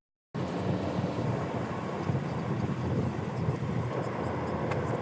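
Steady low rumble of a moving vehicle, starting after a brief silence.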